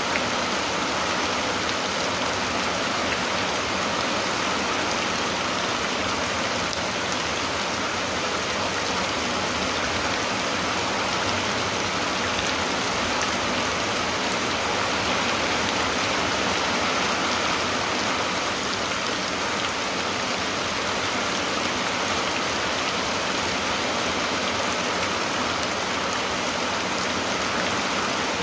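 Steady rain falling, an even, unbroken hiss of drops with no let-up.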